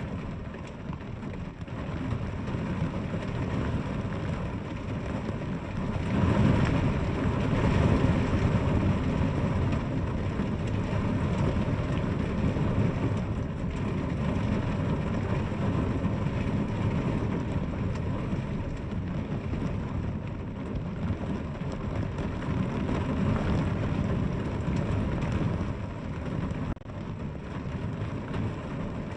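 Steady rain falling as a continuous hiss with a heavy low rumble, growing louder about six seconds in and staying so.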